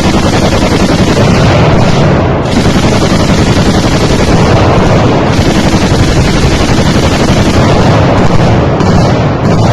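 Sustained heavy automatic gunfire, many weapons firing at once in a dense, continuous barrage that never pauses, loud enough to nearly overload the recording.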